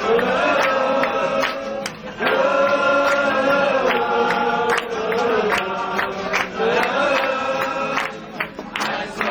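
A group of restaurant waiters singing together in long, held notes, with a sharp beat keeping time.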